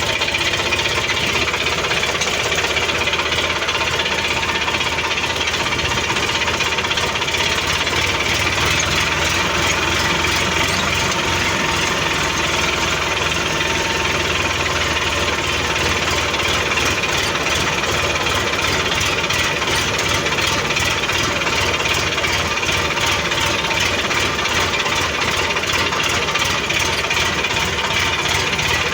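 Sonalika tractor's diesel engine running steadily with a rapid, even clatter.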